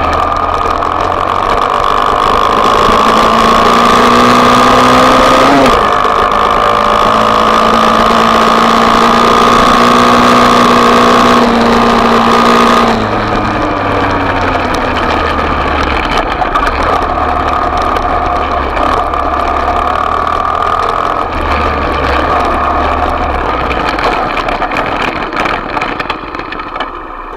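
Small off-road motorbike engine held at high revs, its whine steady apart from a brief pitch jump about five and a half seconds in. The revs drop off suddenly about halfway through, and the engine then runs lower with rising and falling revs, fading near the end.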